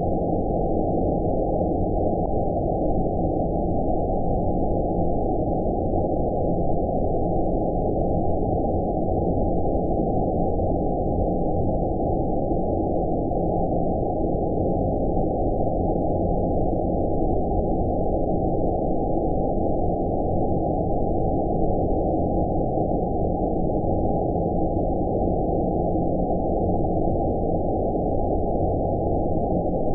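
Steady, unchanging deep rumbling noise with all its energy below about 900 Hz and nothing higher: a synthetic low-pass-filtered 'space' white-noise track.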